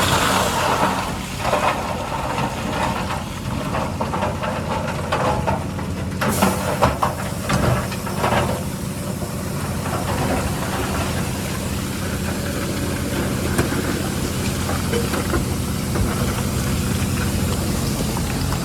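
Heavy diesel engine of earthmoving machinery running steadily. Irregular scraping and knocking noise comes over it in roughly the first half, then it runs on evenly.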